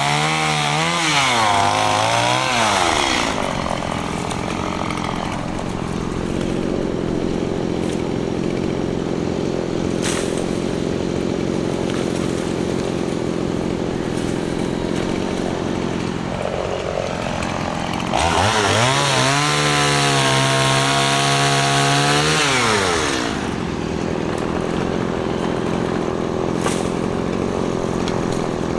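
Stihl MS 170 two-stroke chainsaw being throttled up and down, then settling to a steady idle. About two-thirds of the way through, it revs up and holds high speed for about five seconds, then drops back to idle.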